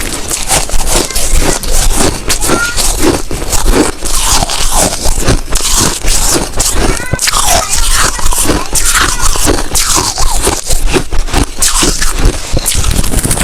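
Snow ice being bitten and chewed right at the microphone: a dense, continuous run of loud crunches.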